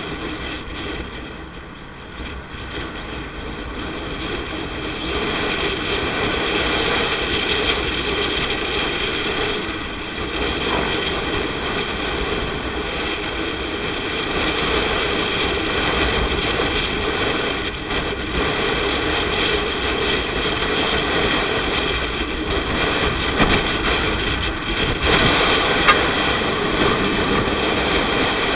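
Motorcycle riding along the road: engine, wind and road noise, dipping about two seconds in and building back up. A brief click near the end.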